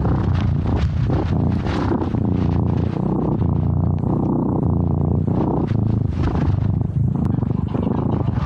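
Steady low rumble with frequent rustling and scraping, picked up close up by a tiny camera worn by a cat as it moves about in snow.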